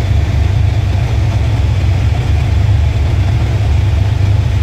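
Car engine idling steadily with a low, even rumble after a dyno pull.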